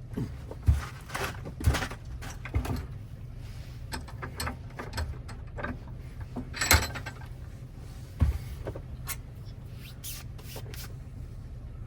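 Irregular clicks and light knocks of small metal parts and tools being handled at a workbench, over a steady low hum. The sharpest knock comes about seven seconds in.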